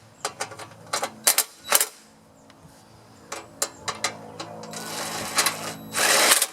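Scattered clicks and knocks of tools and mower parts being handled, then a longer scraping rustle near the end.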